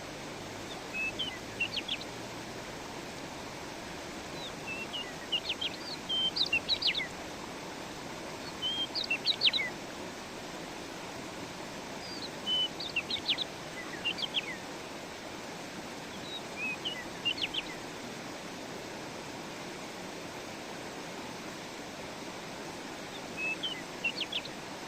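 A songbird singing short bursts of high chirps every few seconds over the steady rush of a stream.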